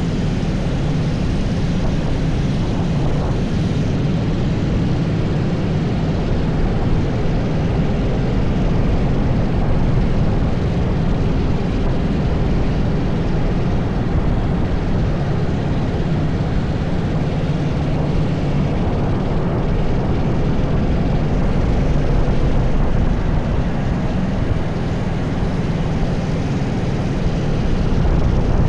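80cc kart engine running continuously on track, its level rising and falling slightly.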